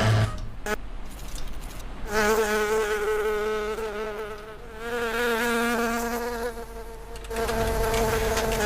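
A flying insect buzzing close by, its pitch wavering as it moves, from about two seconds in, then buzzing again near the end.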